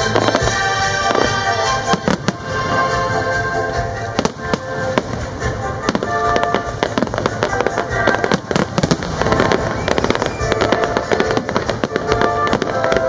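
Aerial fireworks bursting and crackling in quick succession, many sharp bangs and pops, with music playing underneath.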